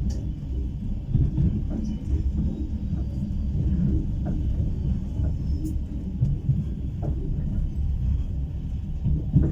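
Low, steady rumble of a moving passenger train heard from a carriage window, with a few faint knocks.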